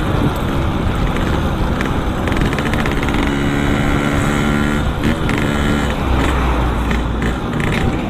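Yamaha RX-King two-stroke single-cylinder engine, running through a Boban C33 aftermarket exhaust while the bike is ridden. The note is mostly steady and briefly dips and changes pitch about five seconds in.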